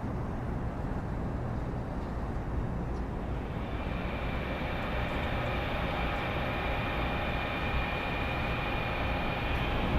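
Steady low rumble of vehicle or city noise, joined about three and a half seconds in by a steady higher whine made of several held tones.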